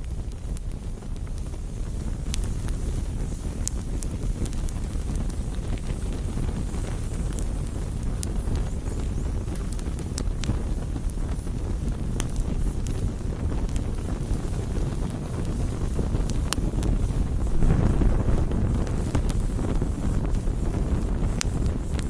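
Campfire burning: a steady low rumble of flames with scattered sharp crackles and pops from the burning wood, swelling louder for a moment a few seconds before the end.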